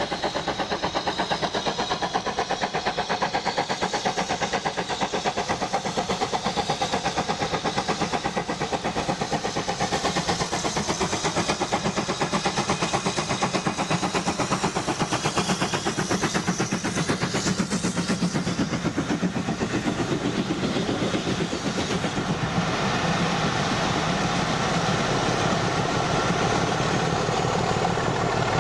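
A steam-hauled passenger train passing: the BR Standard 9F steam locomotive working by, then the coaches rolling over the rails with a fast, even clatter. From about 22 seconds in, the Class 25 diesel on the rear of the train passes with its engine running, a steadier and slightly louder engine note.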